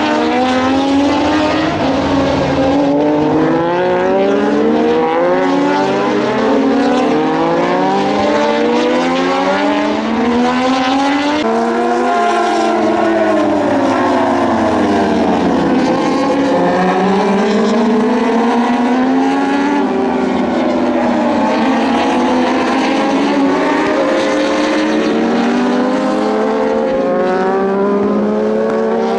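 Several Moto2 racing motorcycles with Triumph 765 cc three-cylinder engines running hard, overlapping, their engine notes climbing through the gears and dropping on downshifts. Near the middle the pitch falls in a long dip and then climbs again as bikes brake and accelerate away.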